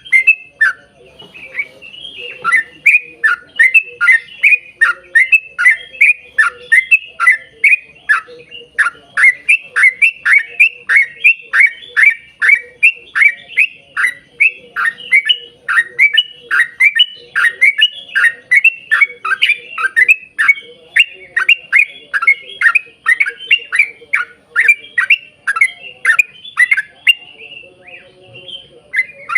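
Yellow-vented bulbul (trucukan) singing a long, fast run of chattering notes, each falling in pitch, about two or three a second, with a brief lull near the end.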